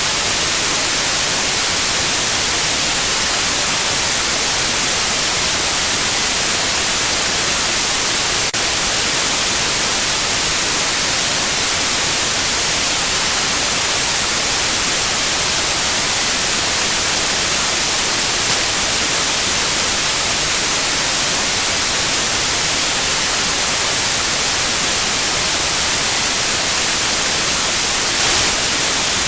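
Synthesized white noise with a steady high-pitched sine tone at 9645 Hz on top, a tinnitus sound-therapy signal. The tone drops out for a moment a little past halfway.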